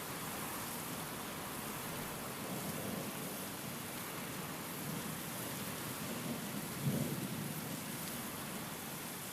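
Thunderstorm: a steady hiss of rain and wind with low rolling thunder rumbles, the loudest one swelling suddenly about seven seconds in.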